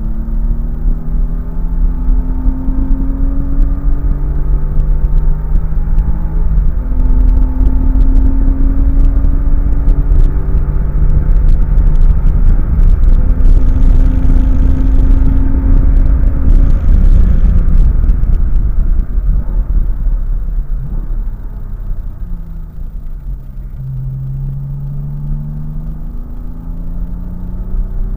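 Car engine heard from inside the cabin, pulling hard through the gears: its pitch climbs steadily and drops at each upshift. About two-thirds through it eases off and its pitch falls, then it picks up again near the end.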